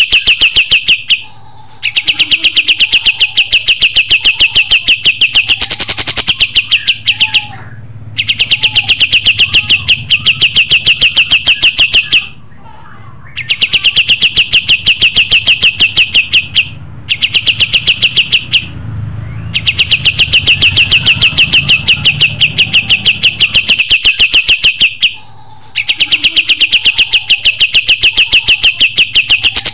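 Kapas tembak songbird singing: long, loud bouts of a very fast, even trill of high notes, each lasting several seconds, broken by short pauses, with a faint low hum beneath.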